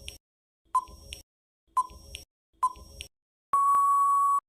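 Countdown timer sound effect: sharp ticks about once a second, then a long steady beep near the end as time runs out.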